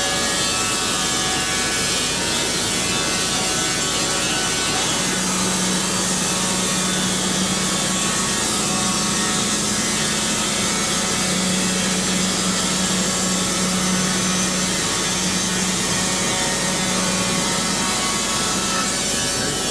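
Band sawmill blade running and cutting through a pine log, a steady dense sawing noise. About five seconds in a steady low hum joins it and holds until near the end.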